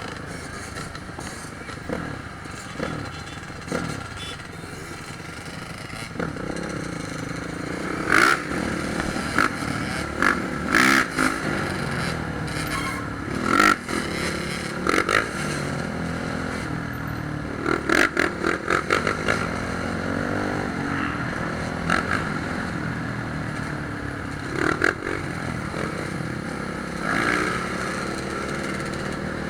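Dirt bike engines revving up and down, with a string of short, sharp loud bursts.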